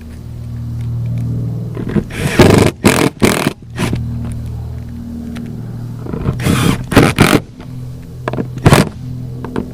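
Cordless drill driver running in three runs, drilling and driving screws into a boat's fiberglass deck, with sharp scraping and knocking bursts between the runs.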